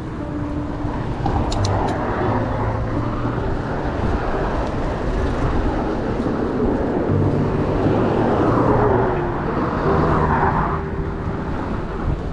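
Road traffic noise, with a vehicle going by that swells to its loudest about eight to ten seconds in. Soft background music with held notes runs underneath.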